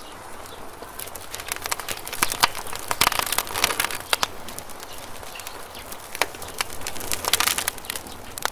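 Campfire burning, wood crackling and popping in irregular snaps over a soft hiss, with thicker clusters of louder pops a few seconds in and again near the end.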